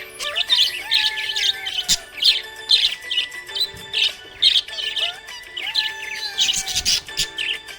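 A flock of small pet parrots chirping and twittering in quick, busy bursts, over background music with long held tones.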